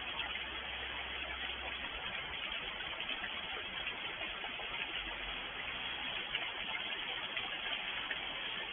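Steady rain falling, a dense even hiss flecked with small drop ticks, with a faint low hum underneath.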